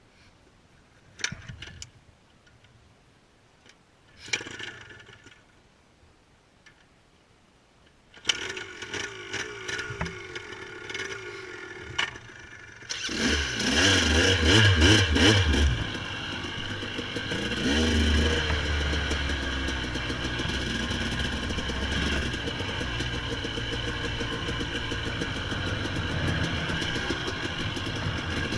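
A few scattered knocks, then about halfway through a dirt bike's engine starts, revs briefly and settles into a steady idle, with one more small blip of the throttle shortly after.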